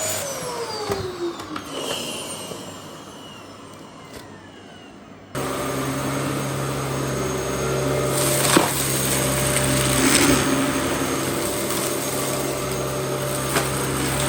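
Dyson DC07 Allergy upright vacuum cleaner switched off, its motor winding down with a falling whine. It is switched back on suddenly about five seconds in and runs steadily, with a few light knocks.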